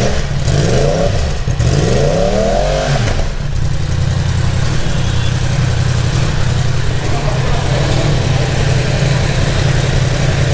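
Yamaha R1M's crossplane inline-four engine blipped twice, its pitch rising and falling with each rev, then settling into a steady idle about three seconds in.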